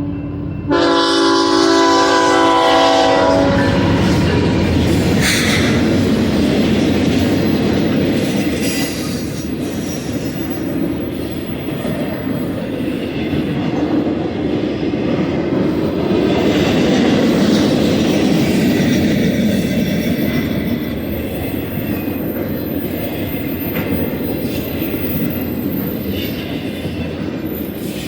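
A diesel locomotive's multi-chime air horn sounds a chord that ends about three seconds in. A freight train then rolls past with steady rumbling and rail clatter, and a faint wheel squeal comes near the end.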